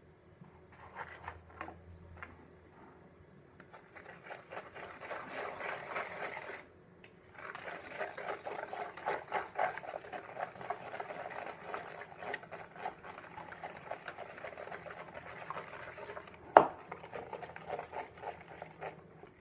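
Batter being whisked in a bowl: rapid, continuous clinking and scraping strokes, with a brief pause about seven seconds in and one sharp knock against the bowl near the end.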